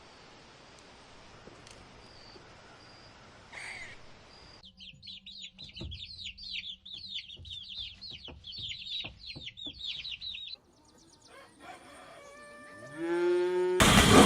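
Chickens: a rapid run of high, falling peeps for about six seconds, then a rooster's crow rising in pitch near the end. A loud, rough sound cuts in at the very end.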